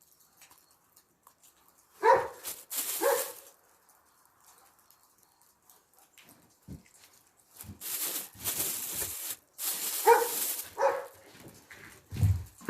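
German shepherd barking in two pairs of short barks, the first pair about two seconds in and the second near the end. Between the pairs there is a few seconds of rustling noise.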